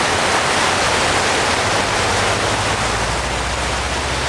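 Steady rush of heavy rain and fast-running floodwater. A low hum comes in about three seconds in.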